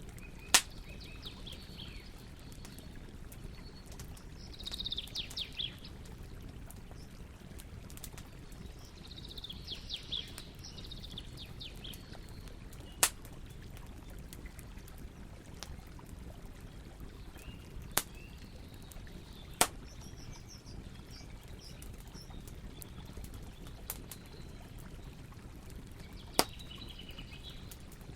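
Campfire burning with a steady low rush, broken by about half a dozen sharp crackling pops. Birds chirp in short bursts four times in the background.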